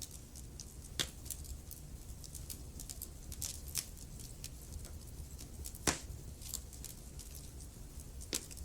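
Wood fire crackling in a fireplace: scattered sharp pops and snaps, the loudest about a second in and again near six seconds, over a low steady rumble.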